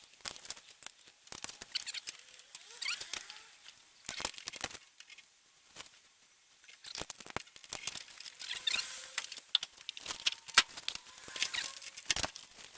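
Irregular light clicks and taps with short squeaky scraping, from hand work on metal engine parts.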